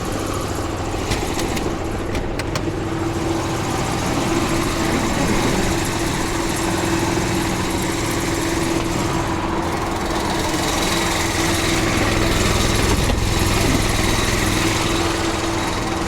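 A small engine-driven air compressor running steadily while the semi's new steer tire is aired up toward 105 psi.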